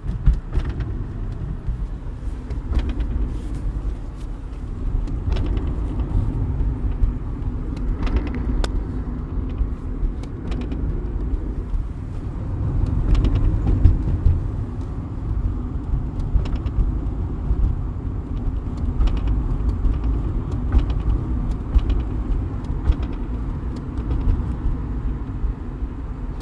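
Skoda Fabia 1.4 driving with steady engine and road rumble, broken by a dozen or so short sharp knocks at irregular intervals. The knock comes from the middle of the car on throttle changes: the gearbox shift cables have shifted out of place and strike the body as the engine and gearbox rock.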